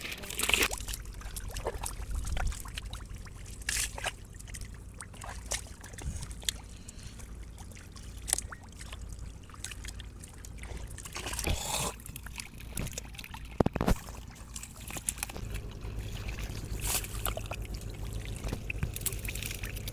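Shallow water splashing and trickling, with irregular sharp splashes and knocks over a low steady rumble.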